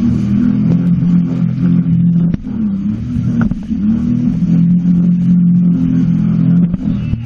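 Sea-Doo jet ski engine running under throttle. Its note sags about two and a half seconds in and climbs back a second or so later as the throttle is eased and reapplied, then dips briefly again near the end.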